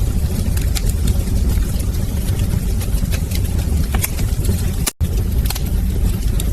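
Wood fire crackling in a fireplace: scattered sharp pops and snaps over a steady low rumble of the flames. The sound cuts out for an instant about five seconds in.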